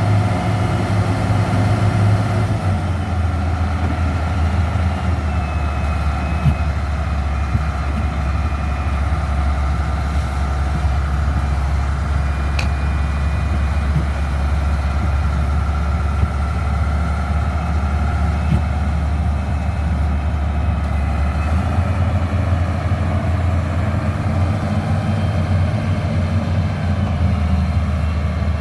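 Motor grader's diesel engine running steadily under light load; the engine note drops about two and a half seconds in and comes back up about three-quarters of the way through.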